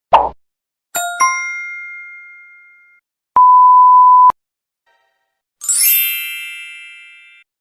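A run of separate stock sound effects: a short thud, a bell-like ding that rings out for about two seconds, a one-second pure-tone censor bleep, then a bright shimmering chime that rings out.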